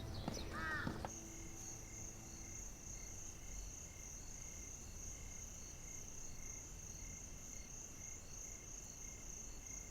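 Crickets chirping in a steady, fast-pulsing high trill, night ambience that cuts off suddenly at the end. A crow caws once near the start.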